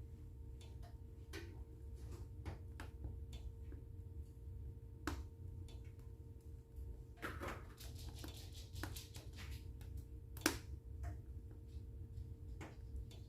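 Wood fire in a fireplace crackling with irregular small pops, a denser run of crackling past the middle and one sharp, louder pop about three-quarters of the way through, over a low steady hum.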